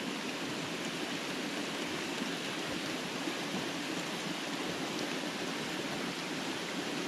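Steady rushing of flowing creek water, an even, unbroken hiss.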